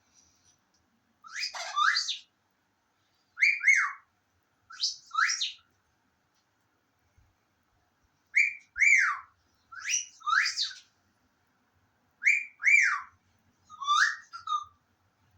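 Bursts of high bird-like whistling, each a couple of quick notes sliding downward in pitch, repeated about seven times with short pauses between.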